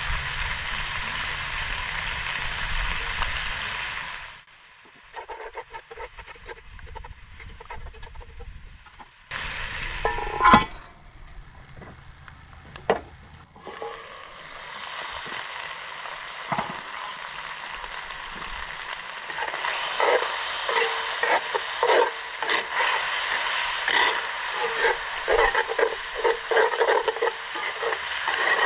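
Chicken sizzling in a cast-iron dutch oven, a steady crackling hiss. A couple of sharp knocks come midway. The sizzle grows louder and busier in the second half as the meat is stirred with metal tongs.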